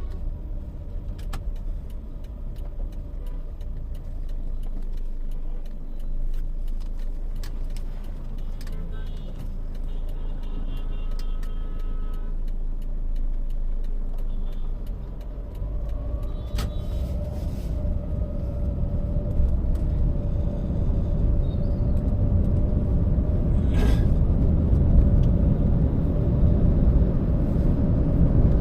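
Road and engine noise of a Toyota Allion on the move, a steady low rumble that grows louder about halfway through as the car picks up speed. A few short higher tones from other traffic cut in along the way.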